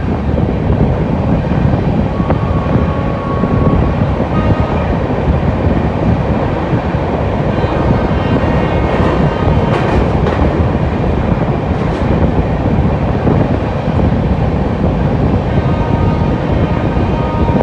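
Garib Rath Express running at speed: a steady, loud rumble of wheels on rails with faint high-pitched squeals coming and going.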